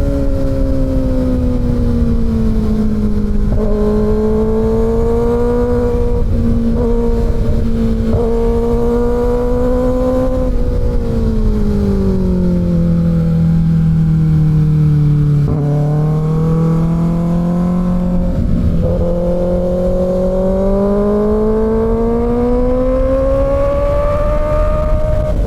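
Kawasaki Ninja ZX-6R inline-four engine running under way on a ride. Its pitch eases down slowly around the middle, then climbs steadily through the last third. A dense low rumble runs underneath.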